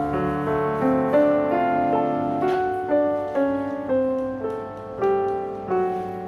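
Soft solo piano music, a slow melody of single sustained notes. A faint rustle sits under it about two and a half seconds in.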